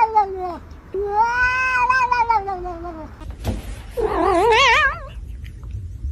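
A cat caterwauling in long, drawn-out yowls: one trails off just after the start, a longer one runs from about one to three seconds in, and a shorter, wavering one comes around four seconds in.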